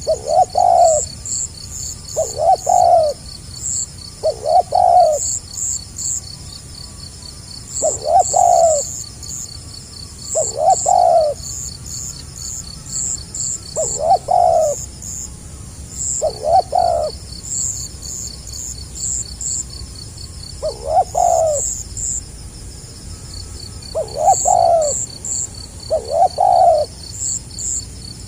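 Spotted dove (tekukur) cooing in the stuttering 'gagap' style. It gives short coo phrases again and again, one every two to four seconds. A steady high pulsing chirp runs under the coos.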